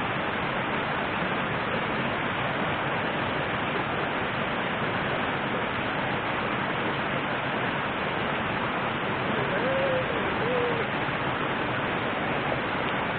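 Steady rushing of river water. About ten seconds in, two short hoot-like notes sound over it.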